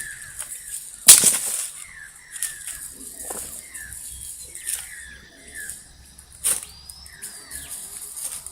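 Campfire burning with sharp cracks and pops, the loudest about a second in, as the flames take hold on the wood. A bird repeats short falling chirps throughout.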